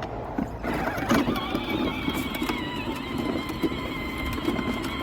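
Battery-powered ride-on toy tractor driving: its motor and gearbox whine steadily, starting about half a second in, over the crunch and clatter of its plastic wheels rolling across the ground.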